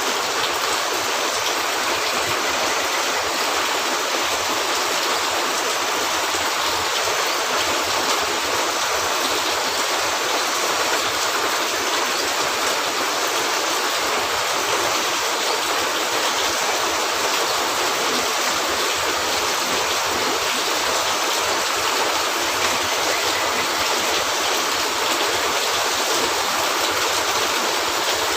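Heavy rain falling steadily, a dense, even rushing hiss with no let-up.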